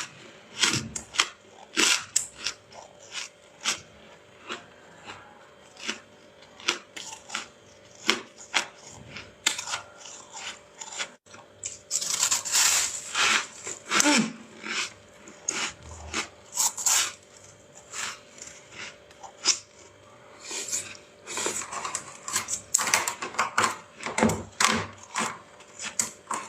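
Flaky freezer frost being scraped loose and crunched, in a long run of short, sharp crunching scrapes, one or two a second, that come in denser clusters about halfway through and again near the end.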